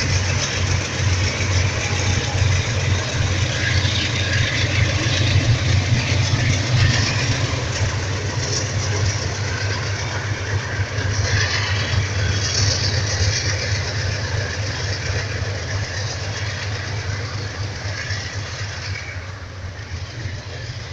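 A set of five GE C30-7 diesel-electric locomotives running, their diesel engines giving a steady low rumble under rail and train noise. The sound slowly grows fainter over the second half.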